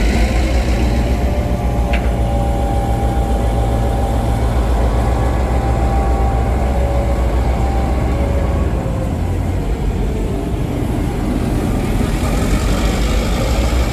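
A train running with a loud, steady low rumble, with faint held squealing tones above it and a single sharp click about two seconds in.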